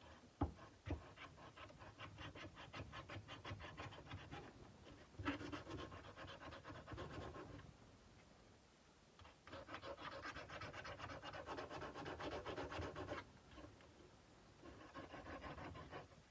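Sandpaper rubbed by hand on a steel kukri blade in quick back-and-forth strokes, in four spells with short pauses between them. There is a sharp knock about half a second in.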